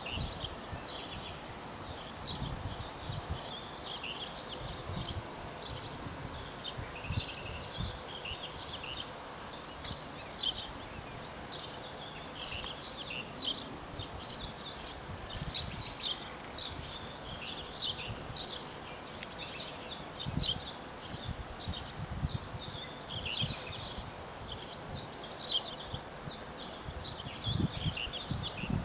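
Small birds chirping busily and irregularly, with occasional low thuds underneath.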